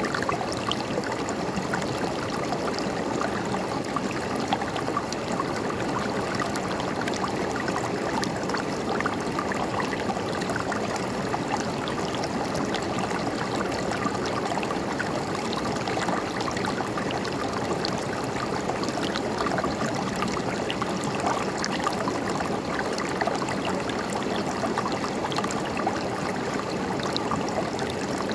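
River water running and gurgling over rocks, a steady babbling flow with small splashes throughout.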